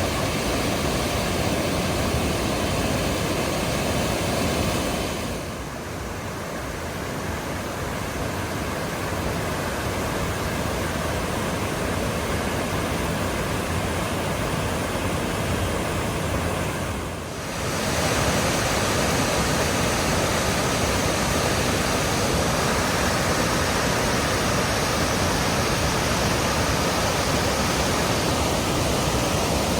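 Waterfall on the Bonnechere River running with high water: a steady, even rush of falling water. The sound dips briefly about five seconds in and again at about seventeen seconds, then comes back at full strength.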